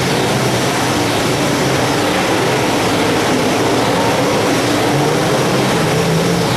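Several wingless open-wheel race cars running flat out on a dirt oval, their engines blending into one loud, steady howl with pitches wavering as cars pass.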